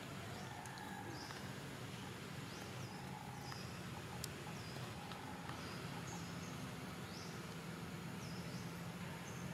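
Outdoor background of birds calling: a short high note repeated about once a second over a steady low hum.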